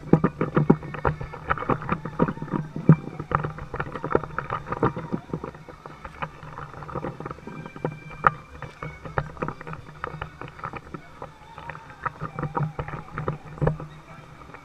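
Kayak being paddled: irregular knocks and splashes from the paddling, over a steady low rumble.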